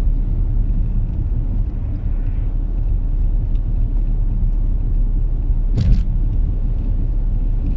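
Steady low rumble of a car driving, engine and road noise, with one sharp knock about six seconds in.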